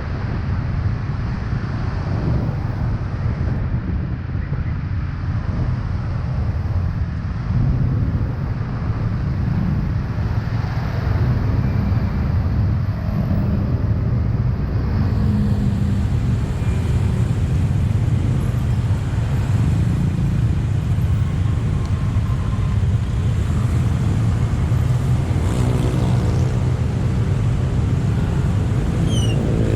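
Motor vehicle on the move: steady low engine and road rumble, with a pitched engine note rising in over the last few seconds.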